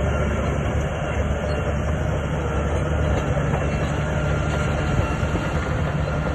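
Shantui crawler bulldozer working: its diesel engine runs steadily under a dense mechanical clatter from the steel tracks.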